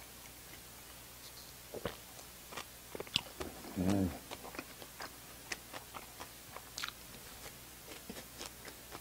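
Close-miked mouth sounds of a person chewing soft bakery food with the mouth closed: scattered faint wet clicks and smacks, beginning about two seconds in. A short low hum from the eater comes about four seconds in.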